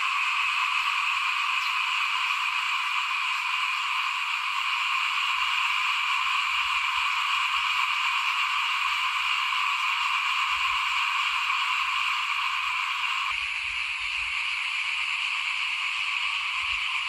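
Dense chorus of small rice-paddy frogs (khiat) calling continuously, many overlapping calls merging into a steady high-pitched hum; the lower part of the chorus thins a little about two-thirds of the way in.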